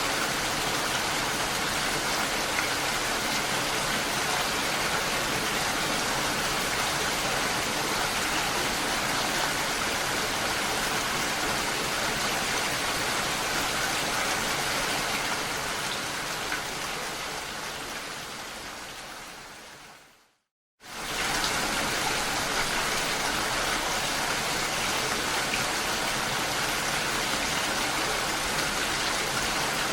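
Steady rain falling, an even hiss. About two-thirds of the way in it fades away to a moment of silence, then starts again abruptly at full level.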